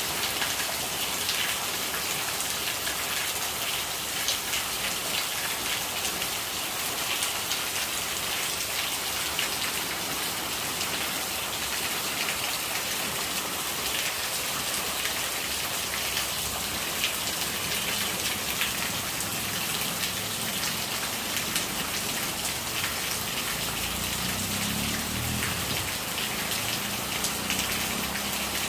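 Steady rain pattering on surfaces: an even hiss full of fine drip ticks. A soft low rumble comes in during the second half.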